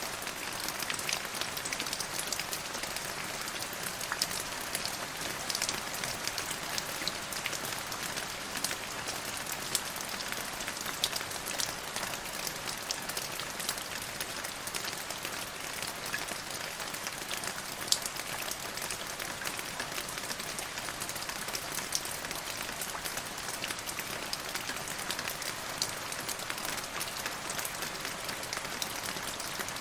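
Steady rain falling: an even hiss, thick with small pattering drop ticks. A few sharper, louder drops stand out, one of them about two-thirds of the way through.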